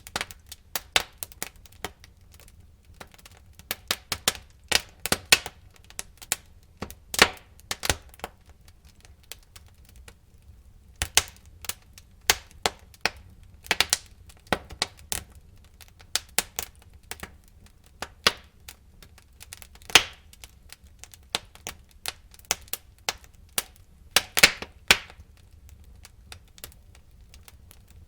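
Wood fire in a fireplace crackling: irregular sharp pops and snaps, several a second in clusters with short lulls, over a faint low rumble of the flames.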